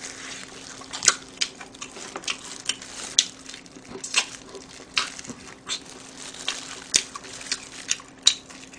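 Close-miked chewing of fried chicken: irregular wet mouth smacks and crunches, about two a second.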